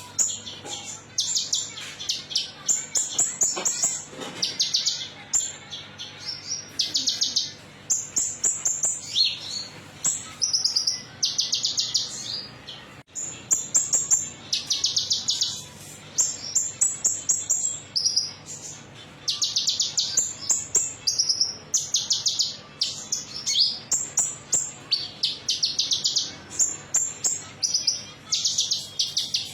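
Konin metalik sunbird singing: short, high, rapid trilled phrases, each under a second, repeated one after another with brief gaps.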